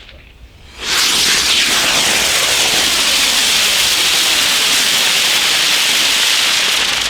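A firework giving off a loud, steady hiss that starts about a second in and holds evenly until it stops near the end.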